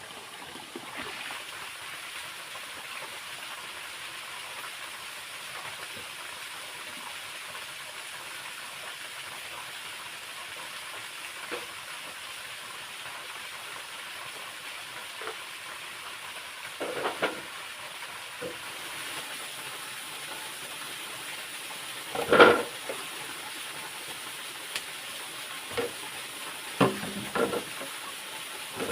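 Steady rushing hiss of a nearby waterfall and stream, with a few scattered short knocks and thumps over it, the loudest about two thirds of the way through and a cluster near the end.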